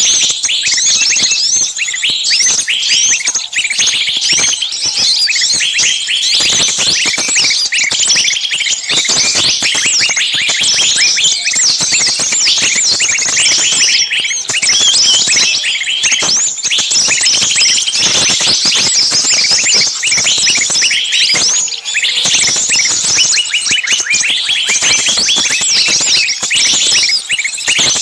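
Many small birds chirping and chattering at once, a dense, unbroken mass of quick high chirps.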